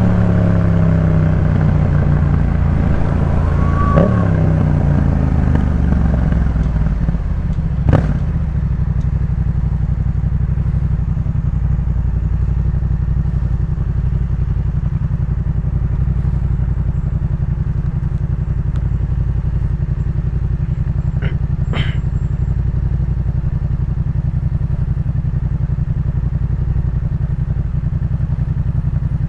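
Yamaha MT-07's 689 cc parallel-twin through a Jeskap K4 full exhaust, engine speed falling over the first several seconds as the bike slows, then idling steadily for the rest. A sharp click comes at about eight seconds, and a couple of lighter ticks come later.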